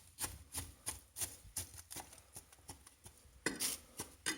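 Small fire crackling in the firebox of a brick fireplace: irregular snaps and pops, a few a second, with a louder pair near the end, as the flame dies down to embers.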